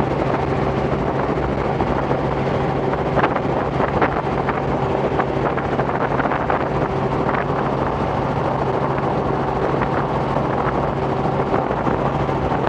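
Robinson R44 helicopter in flight, heard from inside the cabin: the steady drone of its engine and rotor, with wind noise on the microphone.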